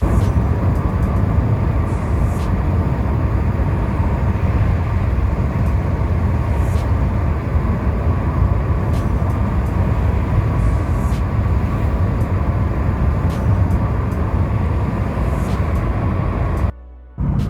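Steady road and engine noise of a vehicle travelling at speed on a highway. The noise drops out briefly near the end.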